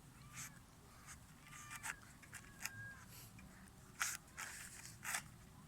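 Scattered short rustles and crunches, about one a second and loudest near the end, from animals scuffling on dry ground, with a faint brief high squeak a little before the middle.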